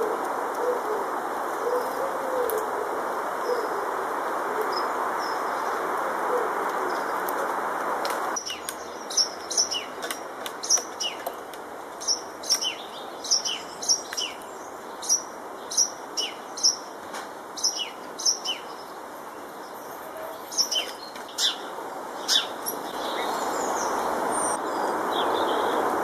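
A bird calling with short, sharp high chirps, about one to two a second, over a steady background hiss; the chirps begin about a third of the way in and stop a few seconds before the end.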